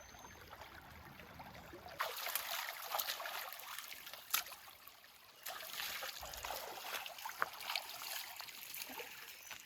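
Creek water trickling over stones with small splashes, starting about two seconds in.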